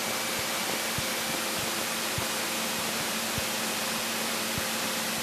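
Steady hiss of a cockpit intercom or headset audio feed in a Cessna 172 during taxi, with a faint steady hum from the aircraft engine beneath it and a few faint low ticks.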